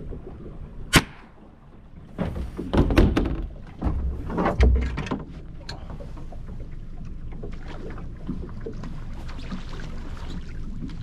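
A single sharp crack about a second in, then a cluster of knocks and thuds from about two to five seconds, over a steady low rumble of wind and water on a small boat.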